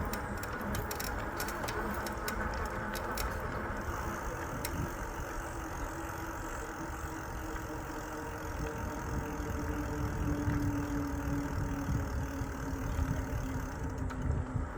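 E-bike riding on a paved trail: a steady low motor hum that rises slightly in pitch, over tyre rumble and wind on the microphone. A run of light ticks sounds in the first few seconds.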